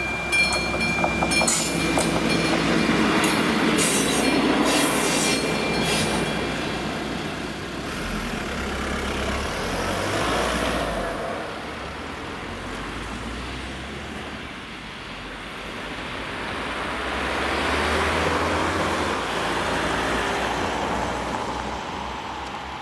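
Regional passenger train rolling away over the crossing, its wheels clicking over the rail joints with a brief high wheel squeal in the first seconds, the clicking fading out by about six seconds in. Road cars then drive over the crossing, their tyre noise swelling in the last third.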